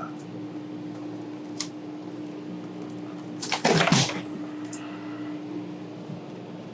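Interior fittings being torn out by hand: one light knock, then a loud burst of knocks and cracks lasting about half a second as a piece comes loose, over a steady hum.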